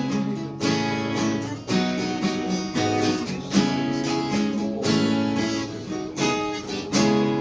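Acoustic guitar strumming chords in a steady rhythm, with a strum stroke about once a second.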